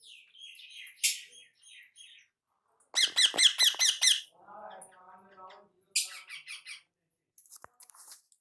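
Small pet birds chirping and squawking, with a loud burst of rapid repeated calls about three seconds in and another short run of calls about six seconds in.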